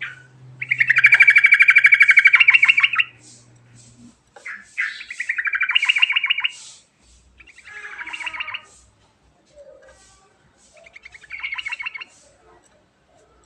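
Yellow-vented bulbul (trucukan) singing: four phrases of fast, rolling notes, the first and longest lasting about two and a half seconds, the later ones shorter and spaced a few seconds apart.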